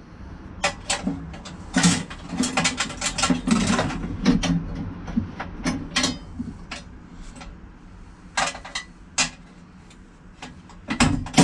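Sharp metal clicks, knocks and rattles as the latches on the Pinzgauer 716's air intake are undone and the tightly fitted parts worked loose. The clicks come thick for the first six seconds, a few more follow a little later, and there is a louder knock near the end.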